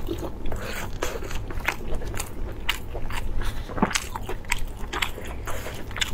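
Close-miked chewing and wet mouth sounds of a person eating lamb-intestine sausage stuffed with meat, with irregular sharp crunchy clicks several times a second over a steady low hum.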